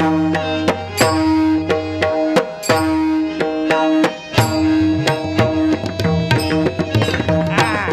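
Instrumental interlude of a devotional bhajan, with no singing: tabla playing a quick rhythm of sharp strokes under sustained melody notes.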